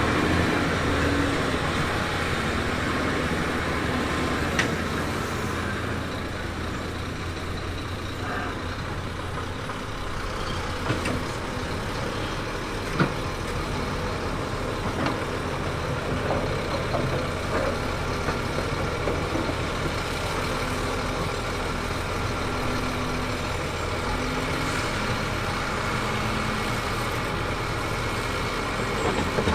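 Heavy diesel earthmoving machinery running steadily, with a few short sharp knocks.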